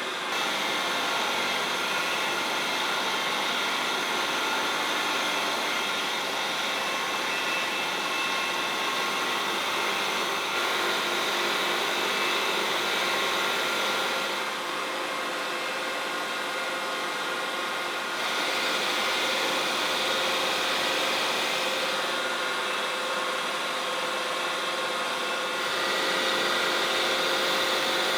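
An electric power tool running steadily with a whirring hum, its level stepping up and down a few times.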